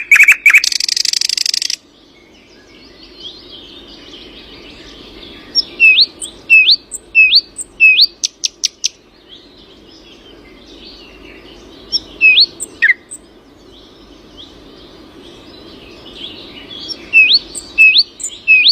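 Songbirds singing at dawn: a fast run of loud chirps and a buzzy trill at the start, then a soft background chorus broken twice by a bird repeating the same sharp upward-sweeping whistle, about one and a half a second.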